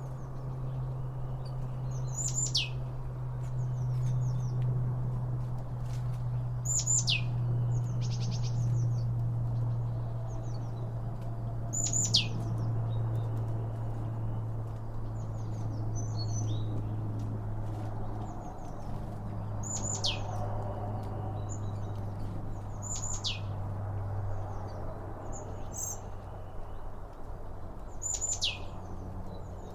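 A songbird repeating a single sharp call that sweeps steeply down in pitch, about every four to five seconds, over a steady low rumble.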